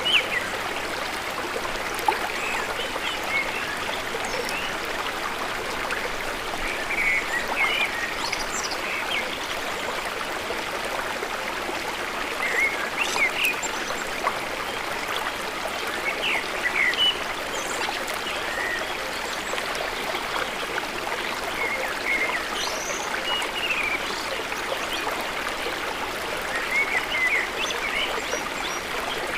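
River water flowing in a steady rush, with birds chirping in short calls now and then, clustering about a quarter, just under half, three quarters and near the end of the way through.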